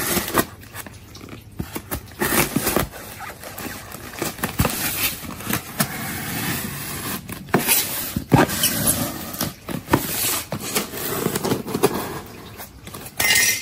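Handling noise of packaged food: irregular rustling and scraping with many sharp knocks and clicks.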